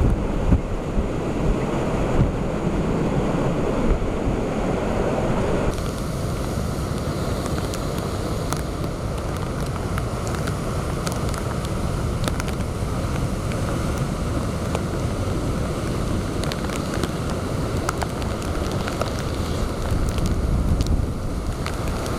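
Typhoon-strength wind buffeting the microphone over breaking storm-surge waves, a steady noise of wind and surf. About six seconds in the sound changes abruptly, and scattered sharp ticks sound above the wind from then on.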